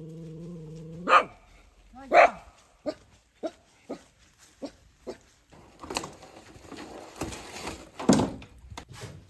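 A dog barking: two loud barks about a second apart, then a string of shorter, fainter barks roughly every half second, with another loud bark near the end.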